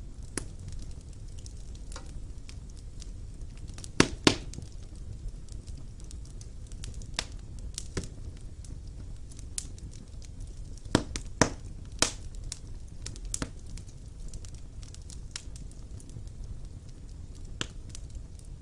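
Wood fire burning in a stone fireplace: a steady low rumble of flames with irregular sharp crackles and pops, a few louder snaps around four seconds in and again near the middle.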